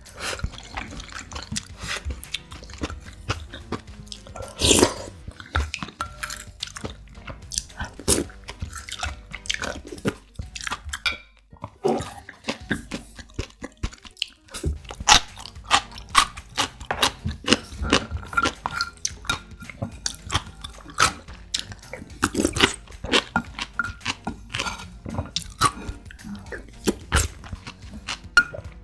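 Close-miked crunching and chewing of seasoned pickled radish, in irregular crisp bites, mixed with spoonfuls of creamy noodle soup taken from a wooden spoon.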